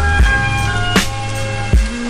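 Instrumental sample-based hip-hop beat with no rapping: a kick drum and a snare alternate at a slow, even tempo, one hit about every three-quarters of a second, under held sampled chords and a deep bass line.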